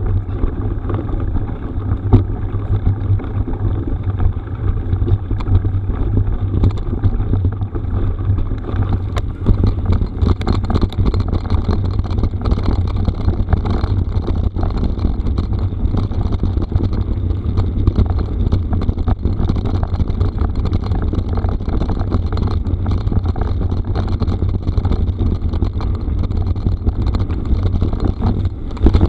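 Mountain bike riding over a rough gravel forest road: steady wind buffeting on the microphone and tyre rumble, with scattered small clicks and rattles from stones.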